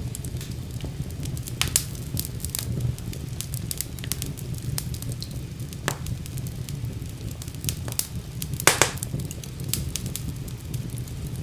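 Wood fire burning in a fireplace, crackling steadily over a low rumble of flame, with scattered sharp pops, the loudest about two seconds in and again near nine seconds.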